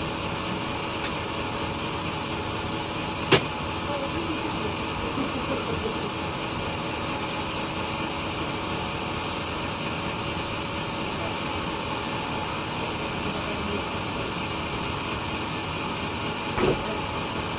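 Large sawmill machinery running steadily with an even mechanical hum, broken by a sharp knock about three seconds in and a smaller knock near the end.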